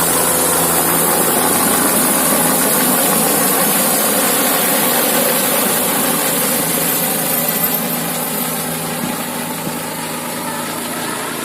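Helicopter passing overhead: steady engine and rotor noise with a high turbine hiss, easing off slightly in the second half.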